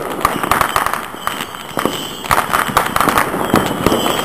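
Many fireworks and firecrackers going off at once at a distance, a dense irregular crackle of overlapping bangs and pops.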